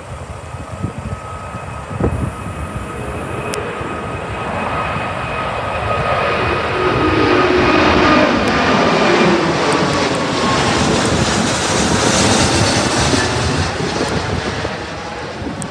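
Airbus A380's four jet engines at takeoff power as the airliner passes. The sound builds to a peak about halfway through and then slowly fades, with a steady engine whine and lower tones that slide down in pitch as it goes by.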